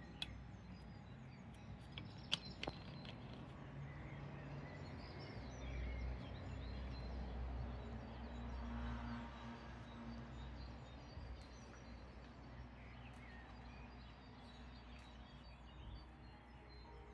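Quiet outdoor ambience: faint bird chirps over a low, steady rumble, with a few sharp clicks about two seconds in.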